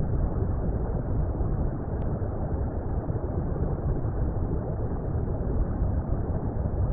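Steady, deep water rumble: an even, muffled wash of water noise with no separate splashes or bubbles.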